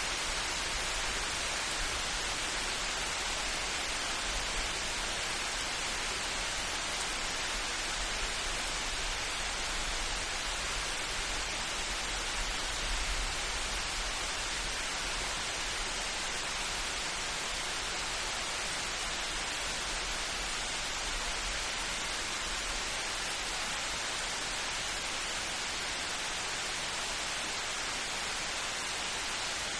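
Steady light rain, an even hiss with no let-up, over a low rumble that swells slightly about halfway through.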